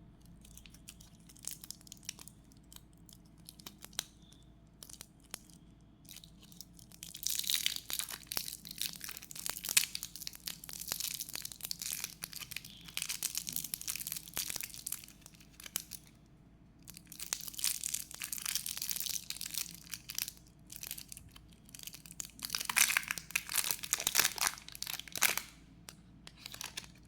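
Packaging being torn open and crinkled by hand, in three long spells of crackling rustle with small clicks in between.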